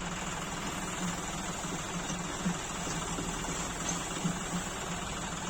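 Tractor engine running steadily, with an even low throb.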